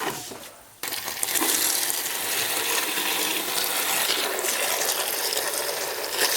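Running water: a steady splashing rush that starts abruptly about a second in.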